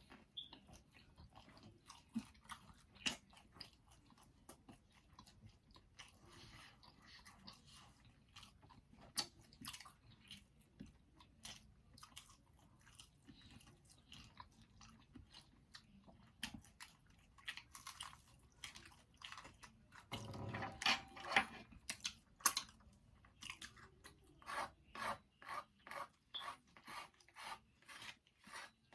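Someone chewing pizza with crunchy bites and small mouth clicks. Near the end it settles into steady chewing at about two crunches a second.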